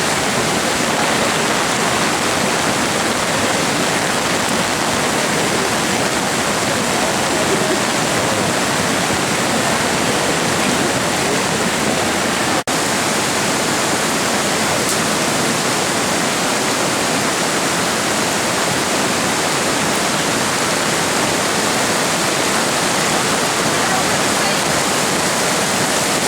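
Floodwater of a flash-flooding creek rushing steadily, a loud, unbroken wash of water noise. The sound drops out for an instant about halfway through.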